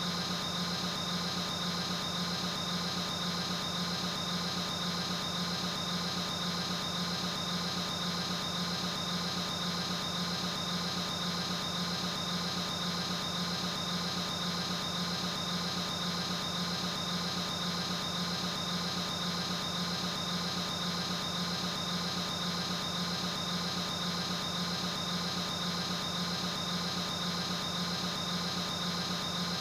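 Steady droning hum with a fast, even pulsing, unchanging throughout.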